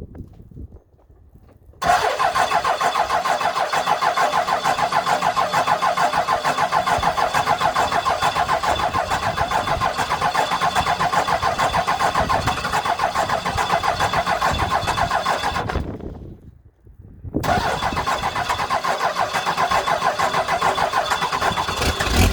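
Dodge 12-valve Cummins 5.9 L inline-six diesel cranking over on a cold start, with a steady pulsing beat. It stops about sixteen seconds in, then is cranked again about a second and a half later.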